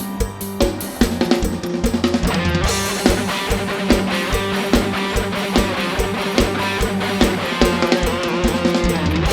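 Live band music with a steady drum-kit beat of bass drum, snare and cymbals under a bass line, with more instruments filling in about three seconds in.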